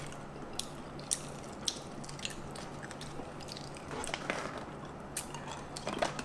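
Crunching of strawberry-flavoured coated almonds being chewed: scattered sharp cracks every half second or so over a faint steady hum, with a plastic snack bag rustled near the end.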